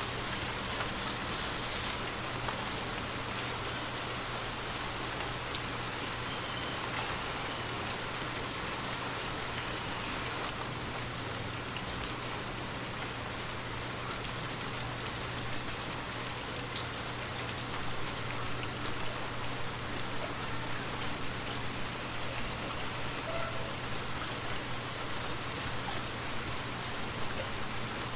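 Steady rain falling and pattering on surfaces, with scattered individual drop ticks and a faint low hum underneath.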